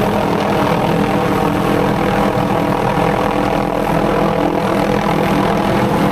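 MD 500D turbine helicopter running steadily and loudly, with its rotor and engine drone.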